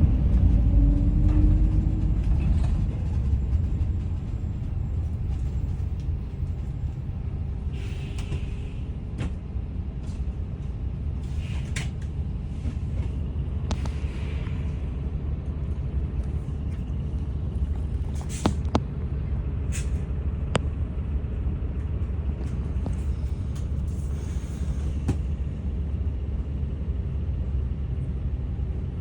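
Daewoo FX116 city bus under way, heard from inside: a deep engine and road rumble, heavier for the first few seconds and then settling to a steady run. Several short hisses of air from the bus's air brake system, with a few sharp clicks.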